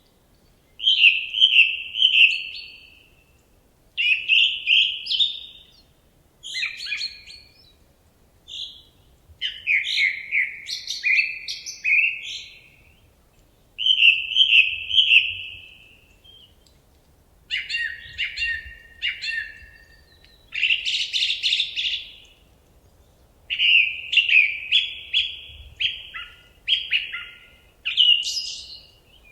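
A songbird singing a run of short, varied phrases, each a second or two long with brief pauses between them, some made of rapidly repeated notes.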